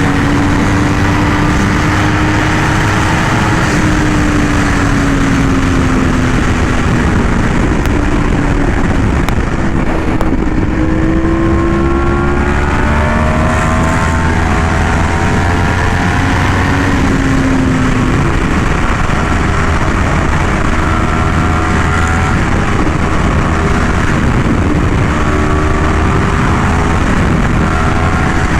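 Yamaha R1M's crossplane inline-four running through an SC Project exhaust while riding, with steady wind rush on the microphone. The engine note sags, climbs sharply as the bike accelerates about ten seconds in, and keeps rising and falling with the throttle after that.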